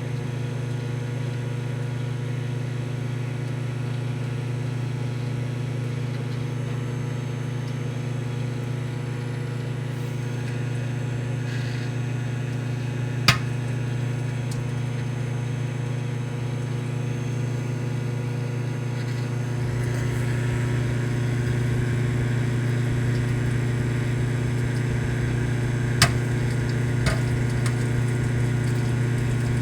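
Microwave oven running with a steady hum while popcorn cooks inside. A few single kernels pop sharply: one about halfway through and two close together near the end, the sparse popping of the first kernels.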